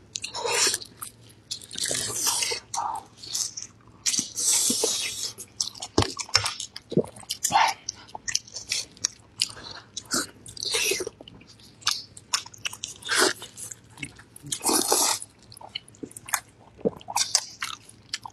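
Close-up eating sounds: a person biting into stewed beef on the bone and chewing it with the mouth open. Irregular smacks and sharp clicks come in bursts, with a few longer stretches of loud chewing.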